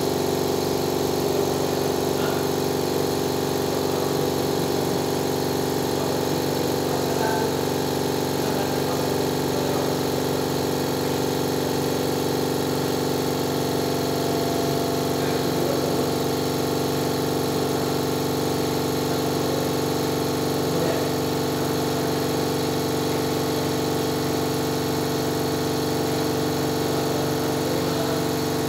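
A motor running steadily: an even mechanical drone that holds one pitch without changing.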